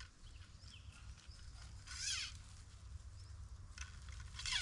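Birds singing outdoors: short warbling phrases, one about two seconds in sweeping downward and another near the end, over a faint low rumble.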